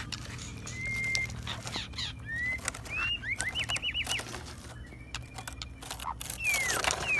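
Birds chirping: short whistled calls and slides, with a quick run of about five notes in the middle, over a steady low hum and scattered clicks.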